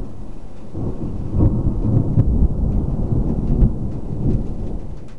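Thunder rumbling low and rolling, swelling about a second and a half in, with rain falling.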